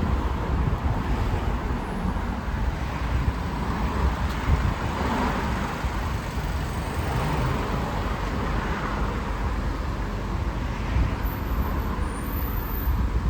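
Road traffic noise: a steady rumble of passing cars, swelling as vehicles go by about four to six seconds in and again later.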